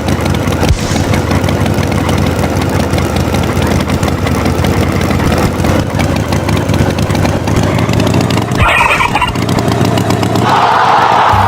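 Tractor engine sound effect running steadily, with a brief higher-pitched burst near the end.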